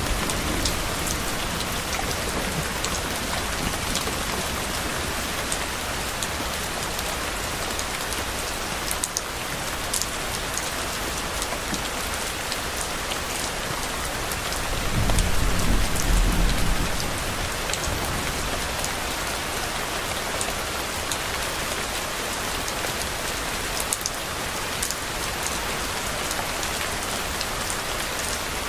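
Steady heavy rain falling, with one low rumble of distant thunder swelling and fading about halfway through.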